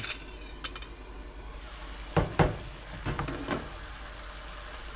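Long squash cooking in its own water in a pot, with a steady sizzling hiss, and a spoon knocking against the pot a few times, twice in quick succession about two seconds in.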